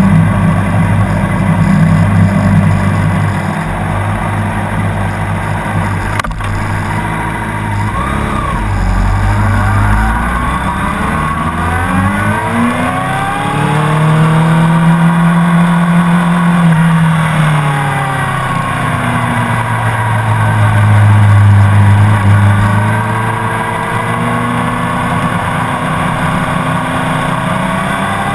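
Honda CBR600RR's inline-four engine at racing speed, its pitch climbing and falling over and over as it accelerates, shifts and slows for corners, with steady wind noise underneath. A sharp click comes about six seconds in, and the engine is loudest about three-quarters of the way through.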